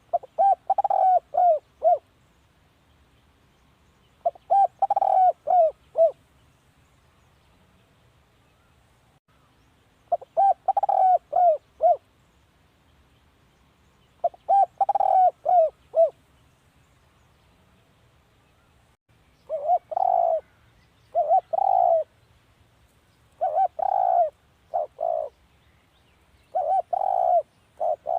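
Spotted dove cooing: phrases of several short, low coos repeated every few seconds. From about two-thirds of the way in, the phrases come closer together and sound blunter.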